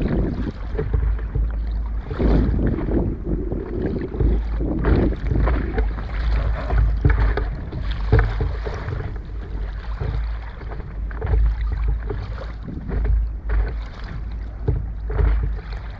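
Wind buffeting the microphone with a steady low rumble, over irregular water lapping and slapping against a small inflatable boat.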